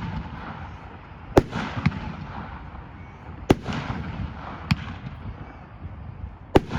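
Aerial fireworks ('Aerial Gold') firing, with three sharp shell bursts about two seconds apart and a fainter pop between the second and third. Each burst has a trailing tail.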